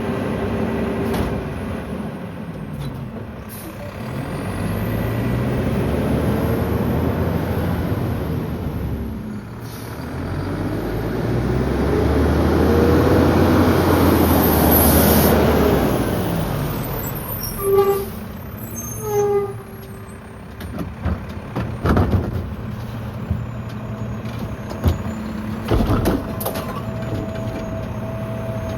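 Mack LEU garbage truck with a McNeilus rear-loader body packing garbage: the engine revs up and falls back twice as the hydraulic packer cycles, then short squeals and several sharp clunks follow over the steady running engine.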